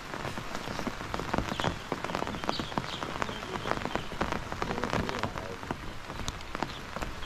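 Rain falling on a surface close to the microphone: a dense, irregular run of small clicks and ticks over a steady hiss.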